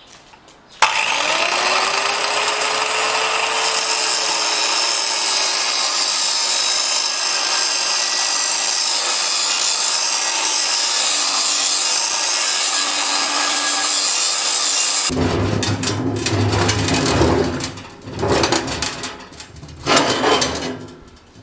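A power tool cutting. It starts suddenly about a second in, its motor pitch rising and then sagging slowly, runs steadily for about fourteen seconds and stops. Irregular scraping and knocking follow near the end.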